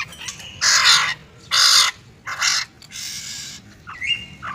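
A bird giving a series of harsh, raspy calls, about four in quick succession, each lasting under half a second.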